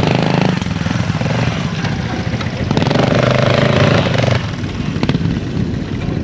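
Motorcycle engines running, revving up and easing off a few times, with one held higher-pitched rev near the middle.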